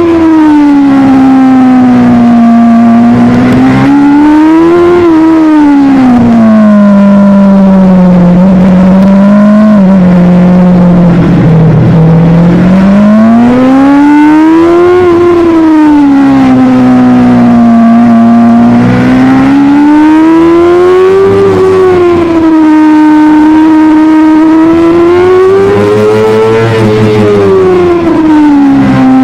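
Superbike engine running hard at high revs, its pitch climbing and falling in long smooth swells every few seconds as the bike speeds up and slows.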